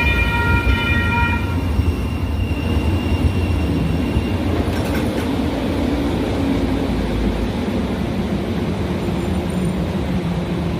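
Light rail train's horn sounding and cutting off about a second and a half in, then a steady low rumble of the train running on the rails.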